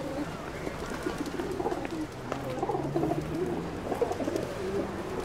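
A large flock of feral pigeons cooing continuously, many low warbling calls overlapping.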